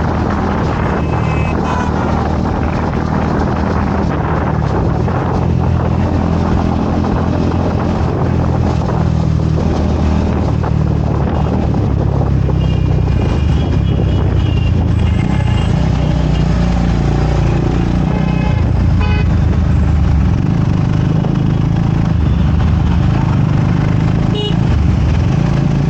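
Motorcycle engine running under way, its pitch shifting up and down with speed, with vehicle horns sounding about halfway through.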